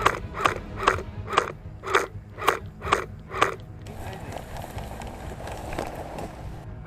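Footsteps crunching on dry ground at a walking pace, about two steps a second. About halfway through the steps stop and give way to a rustling, brushing sound.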